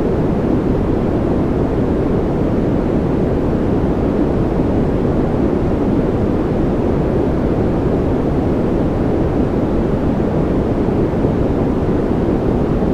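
Steady noise track for sleep, a deep, even rushing sound weighted to the low end with little high hiss, unchanging throughout.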